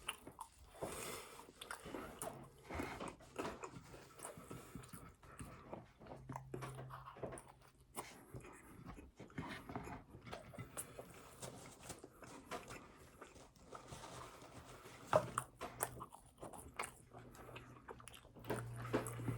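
A person eating: close-up chewing and biting, with many small irregular mouth clicks and crunches.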